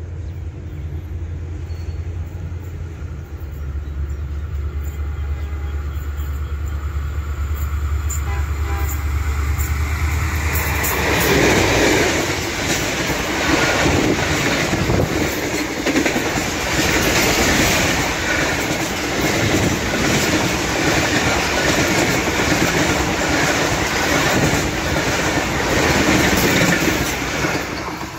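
Pakistan Railways HGMU-30 diesel-electric locomotive hauling an express passenger train through at speed. A steady low drone builds as the train approaches, then about eleven seconds in the locomotive and coaches rush past with a loud rumble and fast clickety-clack of wheels over rail joints that keeps on as the coaches go by.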